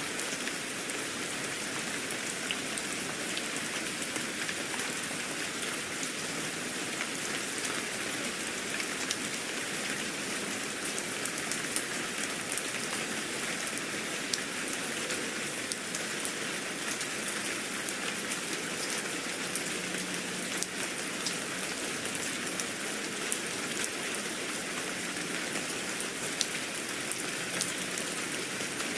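Steady rain falling and pattering on a surface, with many small drop ticks.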